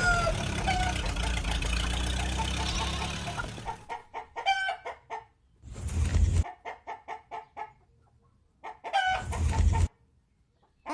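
Hens clucking in short, repeated calls, in several bursts separated by silent gaps, after a few seconds of steady rushing noise that fades out.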